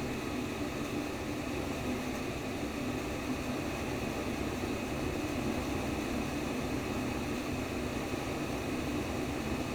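Simulated womb sound: steady white noise, strongest in the low-middle range, holding even without change.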